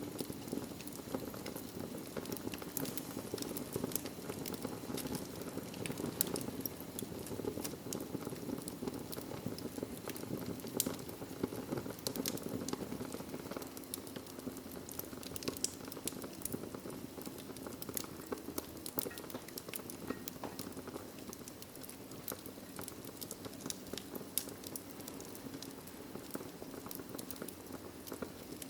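Fireplace fire crackling: frequent irregular sharp pops and snaps over a steady low hiss.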